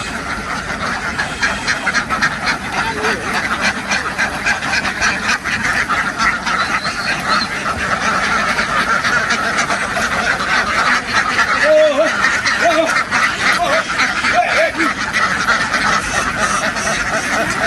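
A large flock of domestic ducks quacking without pause, many calls overlapping into a dense, loud din.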